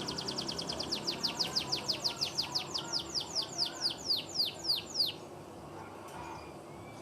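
Canary singing a trill: a fast run of repeated high notes that slows into separate, louder falling notes, then stops abruptly about five seconds in.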